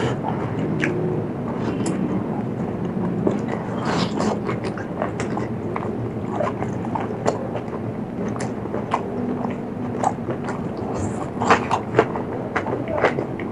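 A person chewing and crunching mouthfuls of spicy seafood salad with crunchy hot peppers: irregular crisp crunches and clicks over a steady background noise, with a few louder crunches near the end.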